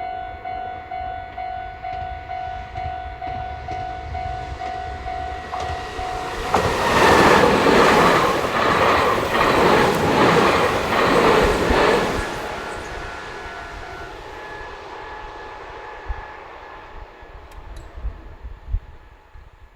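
Japanese level-crossing bell ringing in an even, repeated ding about twice a second. About six seconds in, an electric train passes the crossing, loud, with a regular clatter of wheels over the rail joints. It dies away after about six seconds, and the bell tones fade with it.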